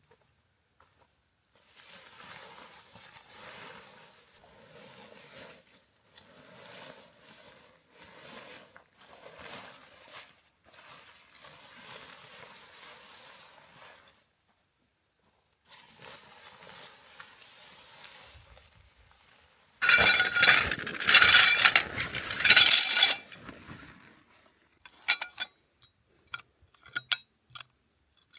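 Gear being handled: soft rustling in stretches, then a loud clattering and clinking of metal for a few seconds, then a few sharp clicks.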